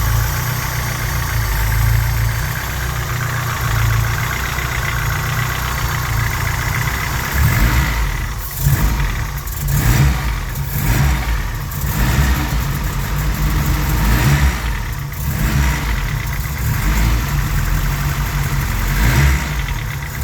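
Honda G23 four-cylinder engine (F23A5 block) idling with a clattering knock, then revved in several short blips from about eight seconds in. The owner puts the knock down to piston slap around cylinders 1 and 2, loudest at idle.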